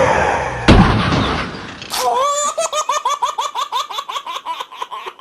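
A sharp crash just under a second in that dies away into noise. From about two seconds on comes high-pitched, rapid cartoon-style laughter, about five quick laughs a second.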